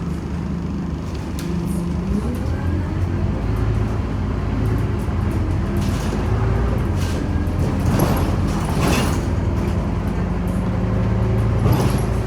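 Scania OmniCity bus engine running under way, its pitch rising about two seconds in as the bus picks up speed, with brief rattles and clatters about halfway through.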